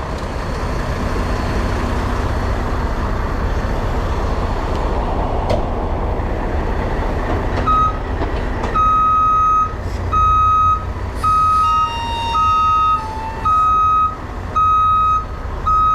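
Mack truck's diesel engine running with a steady low rumble; about halfway through its reverse alarm starts, a single high beep about once a second, as the truck backs up so the dragging brakes can be checked.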